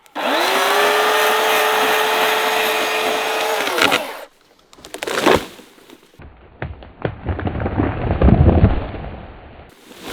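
Two-stroke chainsaw running at full throttle with a steady high whine for about four seconds, then dropping off. After a cut comes a rough, low rumbling stretch with scattered knocks and cracks.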